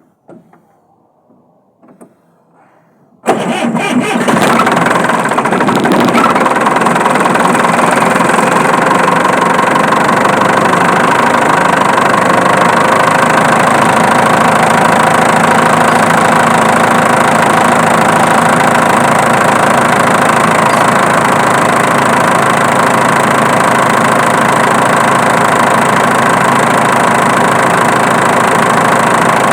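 Diesel engine starting up about three seconds in, after a few faint clicks, then idling steadily.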